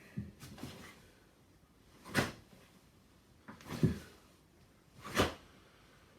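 Three sharp whooshes about a second and a half apart, from karate punches being thrown in a drill.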